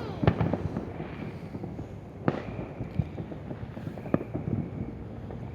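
Fireworks going off: a constant crackle of small pops, with a few sharper bangs standing out.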